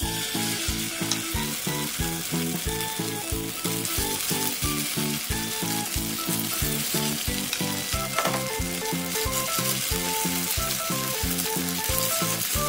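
Kimchi pancake batter sizzling in hot oil in a non-stick frying pan, the sizzle starting suddenly as the batter hits the oil and running on steadily. Background music with a steady beat plays underneath.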